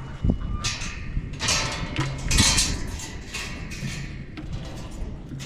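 Footsteps of a person walking outdoors, one scuffing step about every second.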